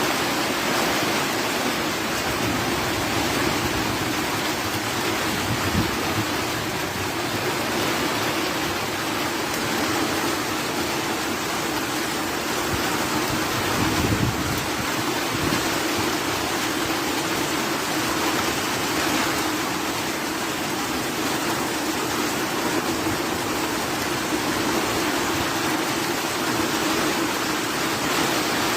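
Heavy thunderstorm rain falling steadily as a dense, even hiss, with brief low thumps about six and fourteen seconds in.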